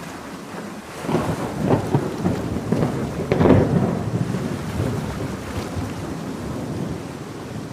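A thunderclap over steady heavy rain: about a second in, a crackling rumble breaks out, is loudest midway, then rolls away and fades into the hiss of the rain.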